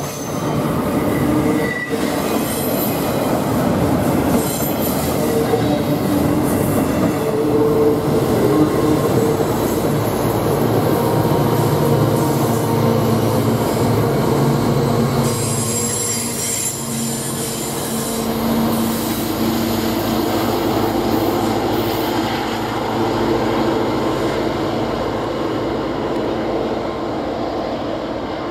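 Freight cars' steel wheels squealing against the rails as a train rounds a tight curve, over the steady rumble of the passing train; the squeal tones shift and change pitch as the cars go by.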